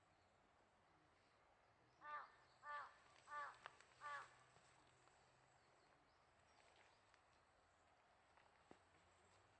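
A crow cawing four times in quick succession, each caw short, about two-thirds of a second apart, over a faint quiet background.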